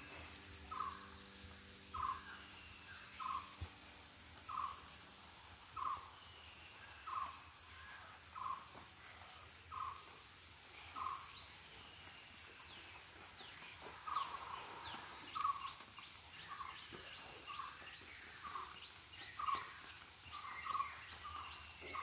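A bird calling a short note over and over, about one every second and a bit, coming faster in the second half. Thinner falling whistles from another bird sound higher up, over a fast, even high ticking.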